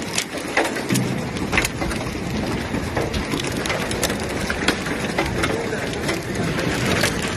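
Storm noise of wind and rain, with irregular sharp knocks and cracks of things striking scattered through it.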